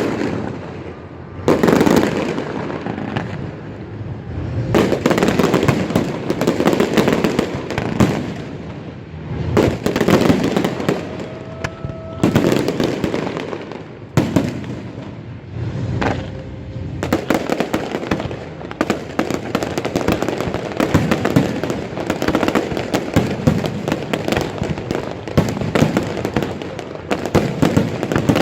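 Fireworks display: aerial shells bursting with repeated loud booms, turning a little past halfway into a dense, continuous run of crackling bursts.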